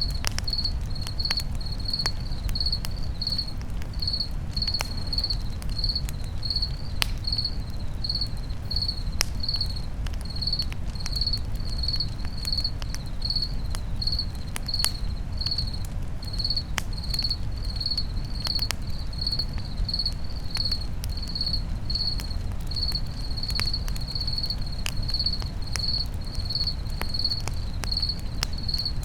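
A cricket chirping steadily, about two high chirps a second, over the scattered crackles and pops of a campfire and a low steady rumble.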